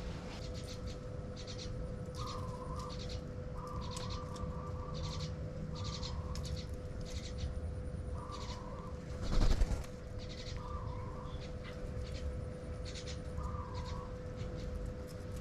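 Small birds calling: short high chirps and brief lower calls repeating every second or so. About nine and a half seconds in there is a loud thump, and a faint steady hum runs underneath.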